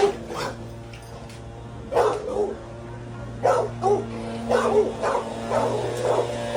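A dog barking repeatedly, about a dozen short barks at uneven intervals.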